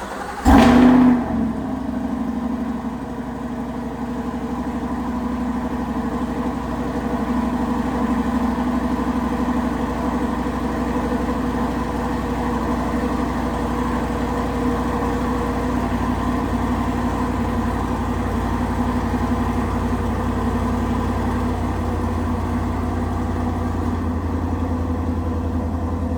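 Chevrolet Corvette C8's V8 with an AWE Touring aftermarket exhaust starting cold. It catches with a loud flare of revs about half a second in, then settles into a steady cold idle.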